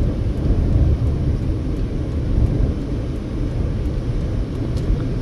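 Steady low rumble of a car at highway speed, heard from inside the cabin: tyre, road and engine noise.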